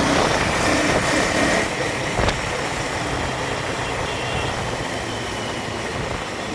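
KTM motorcycle on the move: steady engine and road noise with wind on the microphone, and a single short click about two and a quarter seconds in.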